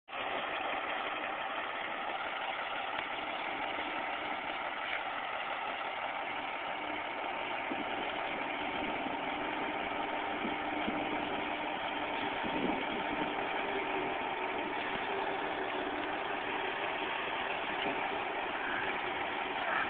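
Semi truck diesel engines idling steadily.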